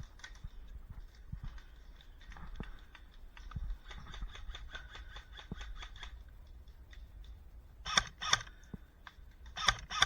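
Airsoft guns firing: a run of rapid shots, roughly eight a second, a few seconds in, then short, louder bursts of snapping shots near the end.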